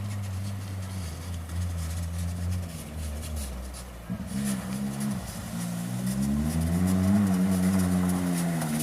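Race car engine running, its note dropping off about halfway through, then climbing again and easing back near the end.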